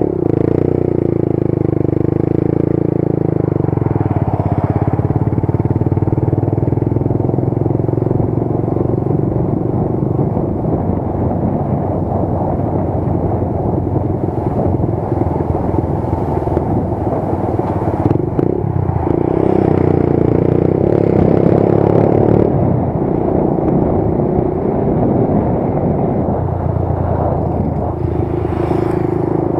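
Motorcycle engine running while riding, its pitch rising and falling as the speed changes.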